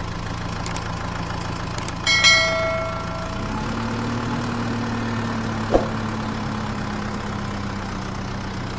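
An engine idling with a steady low drone that steps up slightly in pitch about three and a half seconds in. A single bell-like ding rings out about two seconds in and fades away, and there is a short thump near the six-second mark.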